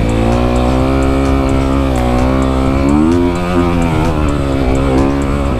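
Dirt bike engine running under steady throttle, its pitch climbing about three seconds in and easing back down a second or so later.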